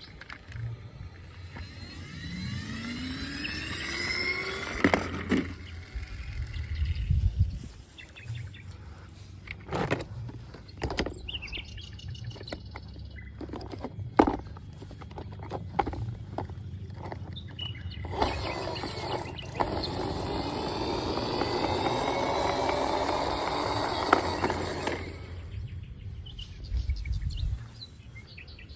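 Toy vehicles being played with: rising and falling electronic sound-effect tones in the first few seconds, then scattered plastic clicks and knocks, and a steady rushing, whirring noise for several seconds after the middle.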